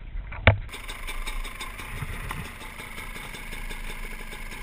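A sharp knock about half a second in, then a dirt bike engine idling with a steady, even beat.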